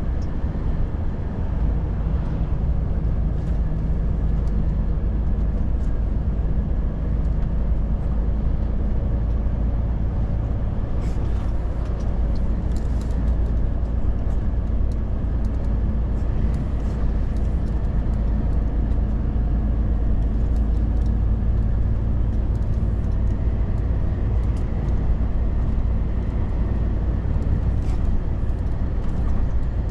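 Volvo FH truck driving on the road: its diesel engine and the tyres make a steady low rumble that does not let up.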